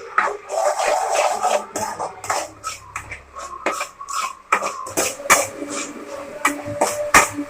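A run of irregular clicks and knocks, many in quick succession, some sharper than others.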